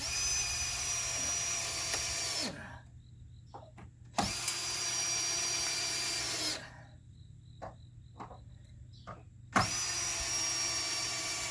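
Power drill running three times, each run about two and a half seconds of steady high motor whine that winds down as the trigger is released, as when driving screws.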